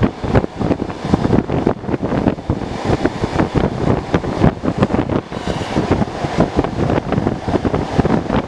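Electric commuter train running at speed, with a loud rushing of wind on the microphone and frequent sharp knocks and clatter from the wheels and running gear.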